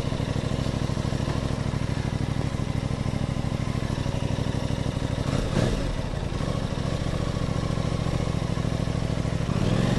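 Aprilia Tuono 660's parallel-twin engine idling with a steady, fast pulse. About five and a half seconds in there is a brief clunk.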